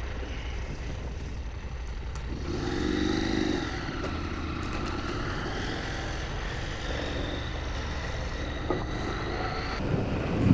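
Motorcycle engine running under way, with wind noise over it. About two seconds in, the engine note rises briefly as the bike accelerates.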